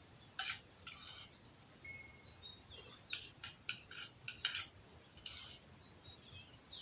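Cutlery clinking lightly against a dish a few times, while small birds chirp in short falling notes.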